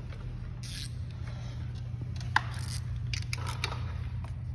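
A few light clicks and scrapes from handling tools or motorcycle parts, with one sharp metallic click a little over two seconds in, over a steady low hum.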